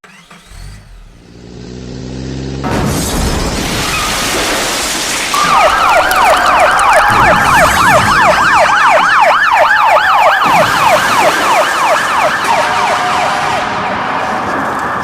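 A vehicle engine revs up, then gives way to a loud rushing noise. About five seconds in, an emergency vehicle siren starts a rapid yelp, rising and falling about three times a second, and switches to a steadier tone near the end.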